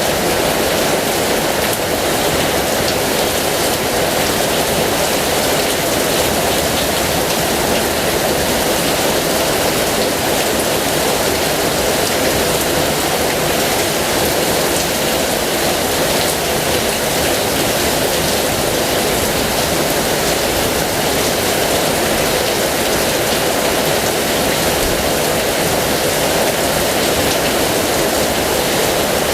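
Heavy rain pouring down steadily, a dense, even rush of water with no let-up.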